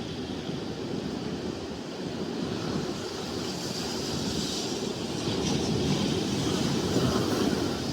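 Wind rumbling on the microphone over the wash of ocean surf, swelling louder in the second half.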